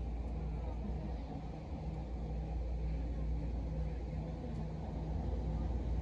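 Vancouver SkyTrain car in motion, heard from inside the cabin: a steady low rumble with a faint steady hum.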